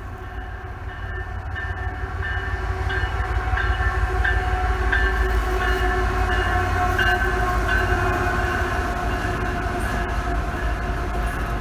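A train running past: a heavy low rumble with several steady tones above it, growing louder over the first four seconds and then holding.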